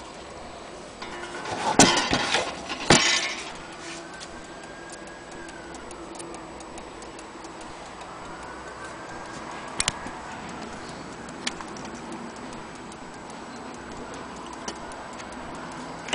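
Vintage German HAC wall clock case being handled: a couple of sharp knocks with rattling about two to three seconds in, then a few faint scattered clicks.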